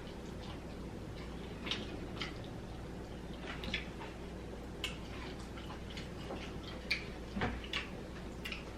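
Close-miked eating sounds of a person eating fried chicken: scattered short, sharp mouth clicks and chewing, about one or two a second, over a faint steady hum.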